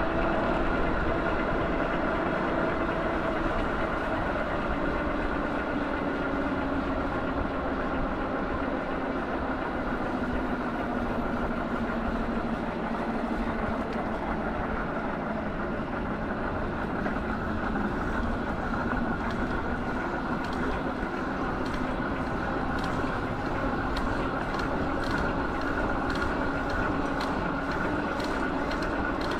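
Steady hum of a running vehicle, its pitch drifting slowly, with a run of light ticks near the end.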